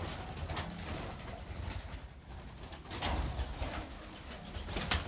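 Pigeons cooing with low, soft calls, over a low background rumble and light rustling.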